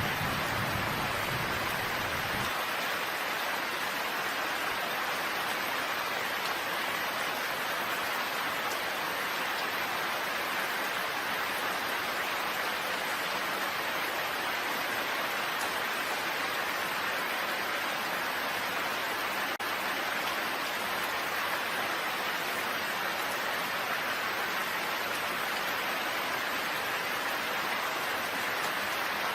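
Steady rain falling, an even hiss of many drops. A low rumble underneath it cuts off about two seconds in.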